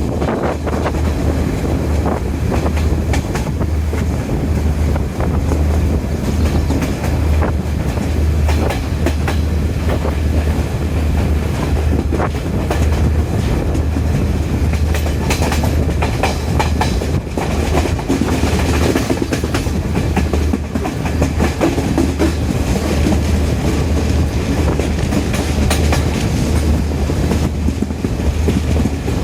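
Diesel express train running along the line, its wheels clicking and clattering over the rails, over a steady low drone.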